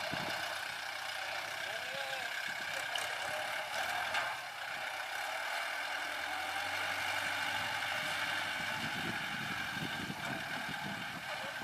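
Kubota L4708 tractor's diesel engine running steadily.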